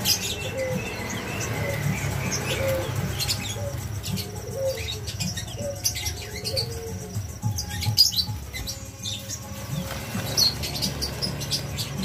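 Many caged birds chirping, with wings fluttering against the cages, and a low call repeating about once a second through the first half.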